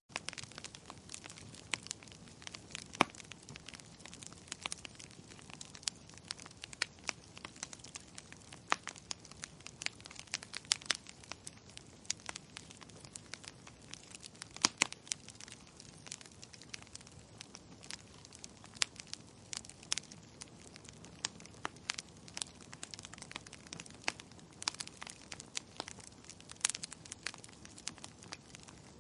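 Wood campfire crackling: irregular sharp snaps and pops over a soft low hiss, with two louder pops about three seconds in and around the middle.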